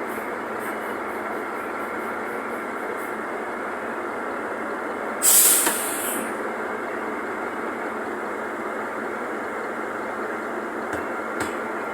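Mercedes-Benz OF-1519 city bus running, a steady diesel and road drone heard from on board. About five seconds in comes a loud burst of compressed-air hiss lasting about a second, from the bus's pneumatic system.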